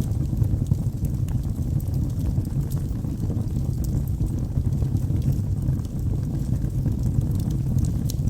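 Logs burning in a fireplace: a steady low rumble of flame with scattered sharp crackles and pops throughout.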